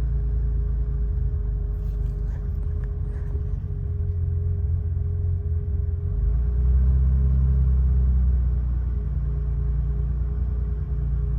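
BMW 528i E12's fuel-injected 2.8-litre straight-six idling steadily while warming up after a cold start, swelling louder for about two seconds past the middle before settling back. A few faint ticks sound early on.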